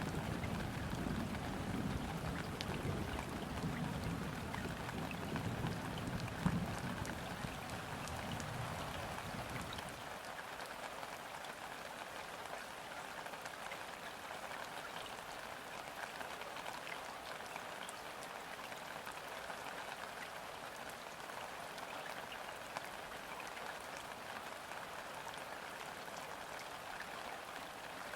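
Steady rain falling on river water, a dense even patter of drops. For the first ten seconds or so a low rumble sits underneath, then stops fairly suddenly.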